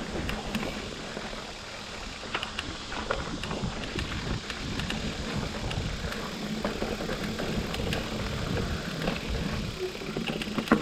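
Mountain bike being ridden along a dirt trail: steady tyre and drivetrain rumble with many small rattles and clicks from the chain and frame.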